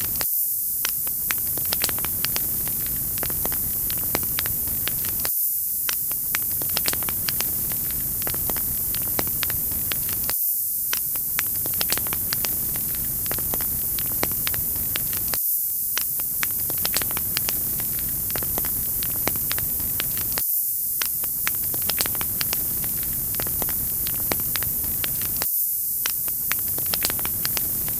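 Wood fire crackling, with many sharp pops over a steady hiss. The same short stretch of recording repeats about every five seconds.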